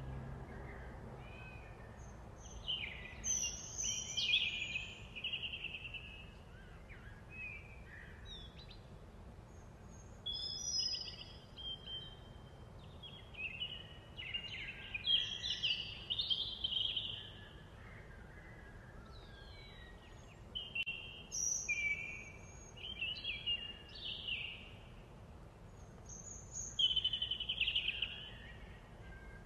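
Birdsong: groups of short, varied chirping and warbling phrases every few seconds over a faint steady background noise.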